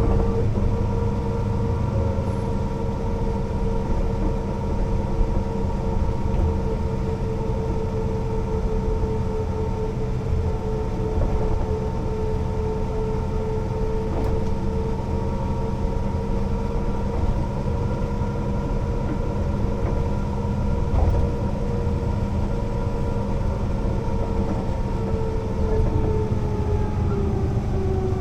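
Mercedes-Benz O 405 NÜ bus driving at steady speed: a continuous low rumble with a steady whine that begins to fall in pitch near the end as the bus slows.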